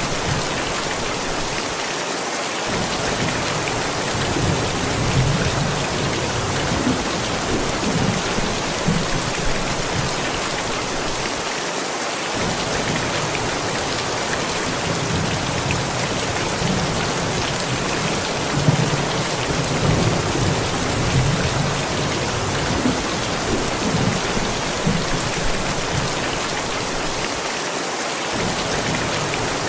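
Steady heavy rain pattering on surfaces, with low rolling thunder rumbling on and off underneath: a thunderstorm downpour.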